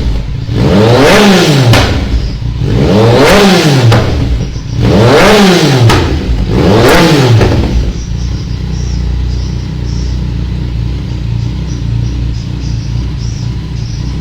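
Motorcycle engine breathing through an aftermarket Proformance exhaust, revved four times in a row, each rev rising and falling in pitch about two seconds apart, then settling into a steady idle.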